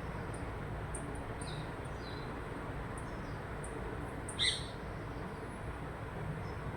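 Birds chirping: short, high chirps come every half second or so. About four and a half seconds in there is one louder, sharper call. A steady low hum runs underneath.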